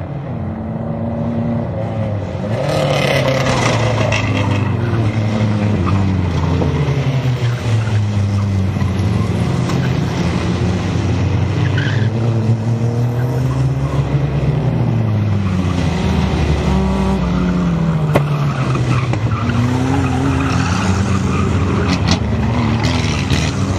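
Several Renault 4L race cars running at speed, their engine notes overlapping and rising and falling in pitch with revs and gear changes. It gets louder about three seconds in.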